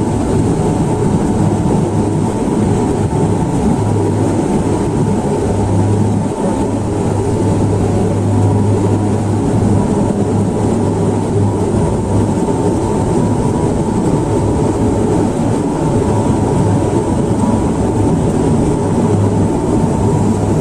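Passenger aircraft heard from inside the cabin: engine and airflow noise running steadily, with a low hum that wavers in strength.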